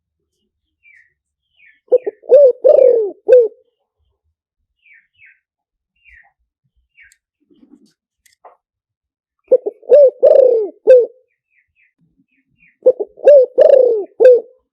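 Spotted dove cooing, three phrases a few seconds apart, each a quick run of four or five coos. This is a decoy call, played to lure spotted doves. Faint high chirps of small birds come between the phrases.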